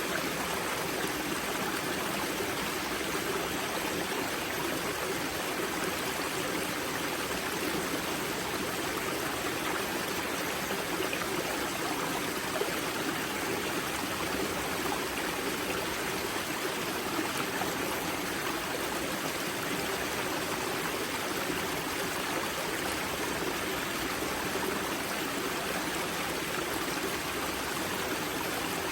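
River water rushing and babbling steadily at the spring source of a mountain river.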